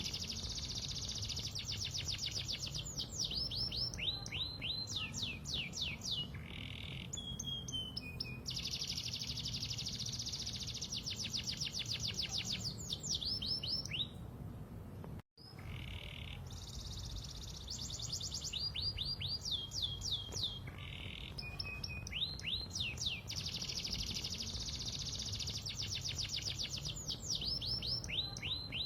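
Canary singing vigorously: long fast rolling trills alternating with runs of quick descending whistled notes, over a steady low hum. The song breaks off for a split second about halfway and picks straight up again.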